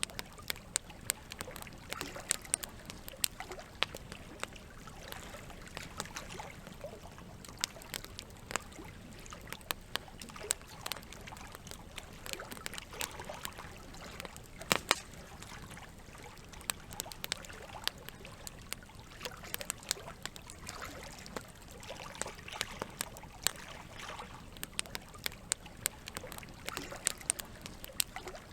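Campfire crackling, with many irregular sharp pops and snaps, over a steady wash of gently moving water.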